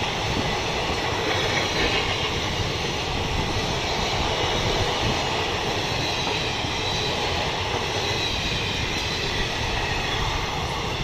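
Two trains running past at once, a goods train of LPG tank wagons and a passenger train's coaches: a steady loud rumble and rattle of steel wheels on rail, with a faint high wheel squeal.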